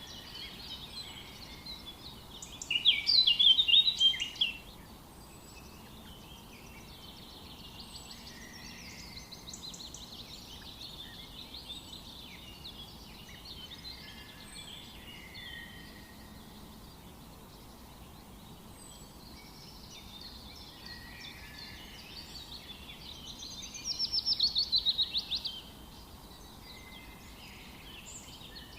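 A chorus of forest songbirds singing and chirping over a soft background hiss. A nearby bird sings a loud, rapid trilling phrase twice, about three seconds in and again near the end.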